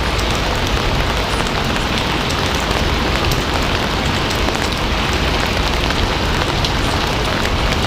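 Steady rain falling: an even, unbroken hiss with scattered small drop ticks.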